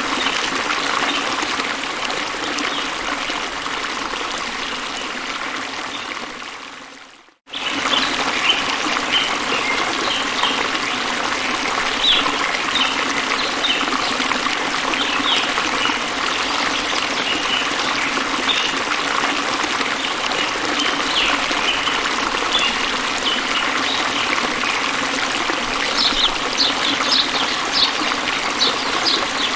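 Stream water trickling and flowing steadily, with short high ticks scattered over it, thicker near the end. The sound fades out about seven seconds in and cuts straight back in.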